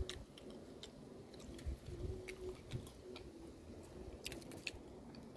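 Faint chewing close to the microphone: scattered small clicks and a few soft low thumps.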